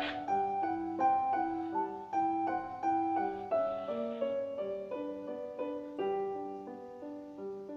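Solo piano music playing a steady run of notes in a classical style.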